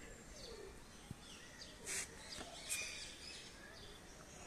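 Faint chirps of small birds: a few short, high calls scattered over a quiet outdoor background.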